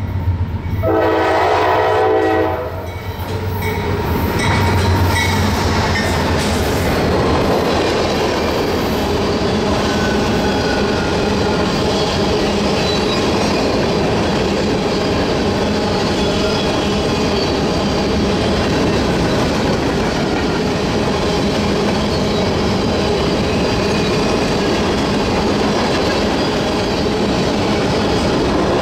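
Diesel freight locomotive's horn sounding one chord-like blast of about two seconds near the start, then the steady rumble and clatter of a freight train rolling past on the rails.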